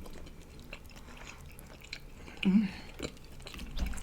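Close-miked chewing and biting of barbecue ribs, with many small wet mouth clicks and smacks. About two and a half seconds in there is a brief low hum from a voice, the loudest moment.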